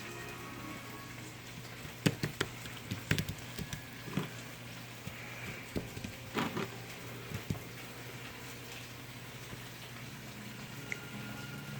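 Scattered sharp clicks and knocks of kitchen utensils and dishes being handled while breading steak, bunched in the middle few seconds, over a steady low hum.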